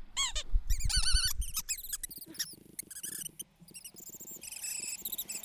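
Small perching birds chirping in quick, repeated high notes, several calls overlapping. There is a low rumble underneath during the first second.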